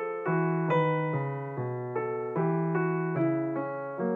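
Background piano music: soft notes and chords struck at an even pace, about two or three a second, each fading away.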